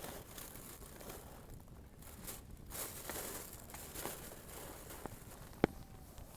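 Wood bonfire crackling, with scattered small pops and one sharp pop near the end.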